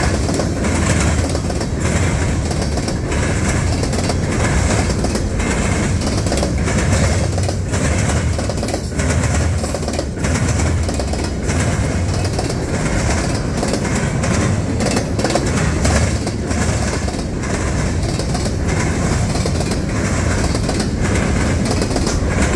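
Freight train cars rolling past at close range: a loud, steady rumble of wheels on rail with frequent clicks and clacks as the wheels cross rail joints.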